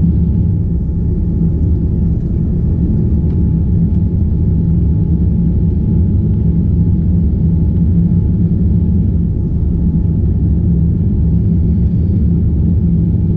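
Steady, loud, low rumble of engine and airflow noise inside the cabin of a Boeing 787-9 Dreamliner climbing out after takeoff, with a faint steady tone above it.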